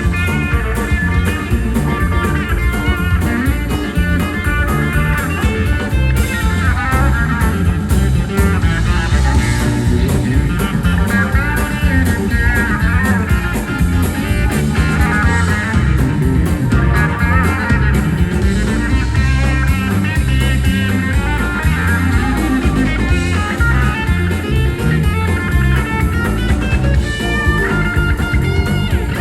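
Live country-rock band playing an instrumental jam: electric guitar soloing with bending, winding lines over drums and bass.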